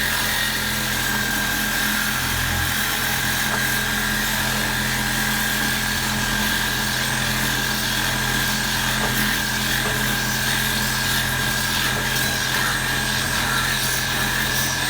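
A power tool cutting steadily through the steel of a car's rear frame rails, with a constant high whine over the cutting noise.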